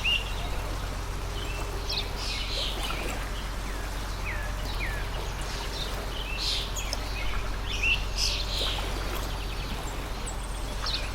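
Many small birds chirping: short high calls and quick falling whistles, over the steady rush of a flowing stream.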